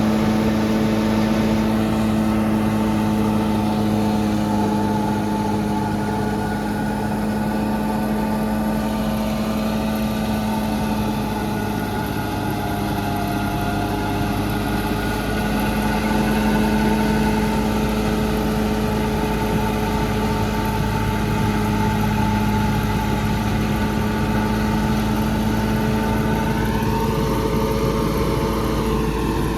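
Tractor diesel engine running steadily at a constant speed, with a brief rise and fall in pitch near the end.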